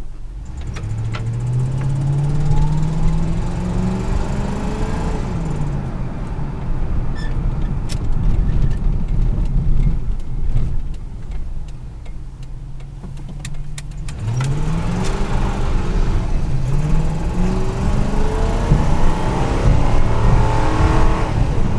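1997 Ford F-150's 4.6-litre V8 accelerating under load, with the automatic transmission upshifting, heard from the cab: the engine's pitch climbs and then drops at each shift. It pulls up through the gears near the start, runs steadier mid-way, then accelerates through the gears again from about two-thirds in.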